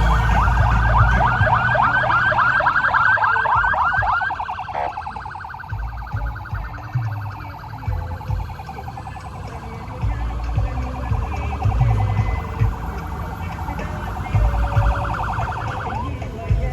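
Electronic siren sounding, sweeping up rapidly over and over for about four seconds, then switching to a faster warbling pulse that cuts off near the end. Irregular low thuds run underneath.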